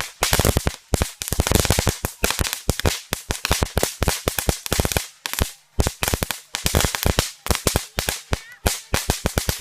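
A string of firecrackers going off in a rapid, irregular run of sharp bangs, several a second, with a brief lull about five and a half seconds in.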